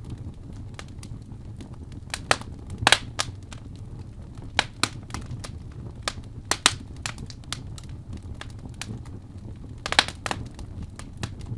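Fire burning in a fireplace, crackling with irregular sharp pops over a steady low rumble; the loudest pops come about three seconds in and again near ten seconds.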